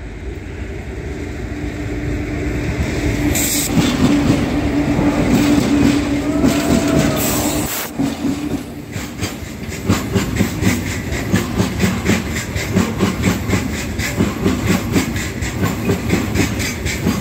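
Freight train passing a few feet away on the rail. Its rumble and a steady low hum build up over the first several seconds. From about ten seconds in, the wagon wheels clatter over the rail in a regular beat, about two a second.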